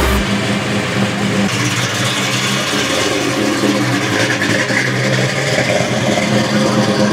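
A car engine running steadily, with an even low hum throughout.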